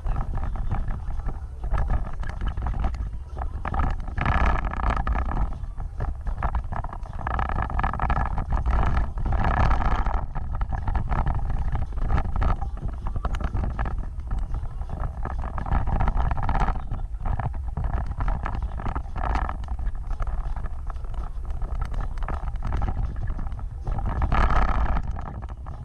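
Off-road vehicle driving, its engine running under a heavy low rumble that swells louder several times.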